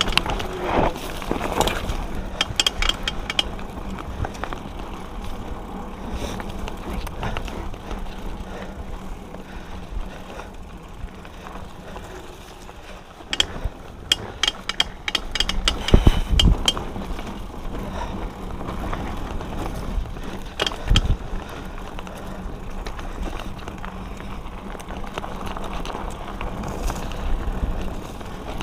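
Hardtail mountain bike riding a dirt singletrack: tyres on dirt with the chain and frame rattling and clicking over the bumps, and a few heavy jolts about two-thirds of the way through.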